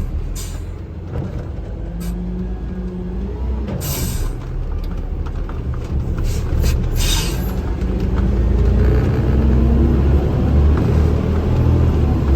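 Heavy container truck's diesel engine running under way, heard from inside the cab, its pitch stepping up and down and growing louder after about 8 seconds, with a few short hisses early on and around the middle.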